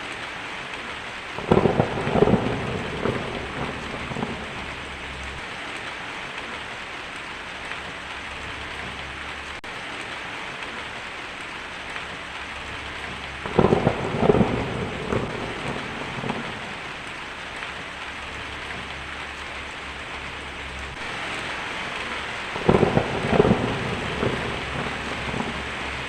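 Steady heavy rain with three peals of thunder, about a second in, near the middle and near the end, each rumbling on for a few seconds.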